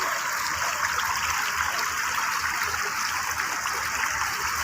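Fountain water splashing into a pond: a steady rush of falling water.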